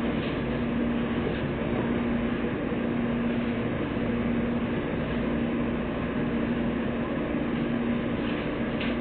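Steady running noise inside a 115 series electric train moving slowly along a station platform, with a low hum that fades in and out.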